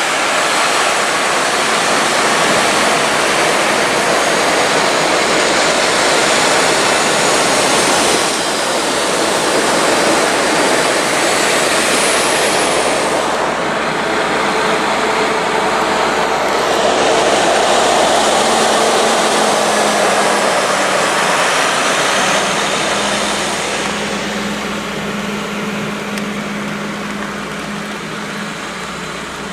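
Heavy rain with the spray of tyres on a wet highway, a steady loud wash of noise. A vehicle engine hum comes in about two-thirds of the way through, and the noise fades gradually near the end.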